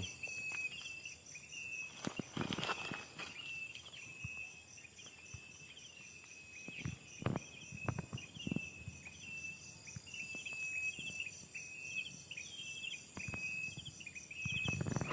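Insects chirping outdoors: a steady, high-pitched chorus with short chirps repeated again and again, and a few soft knocks scattered through it.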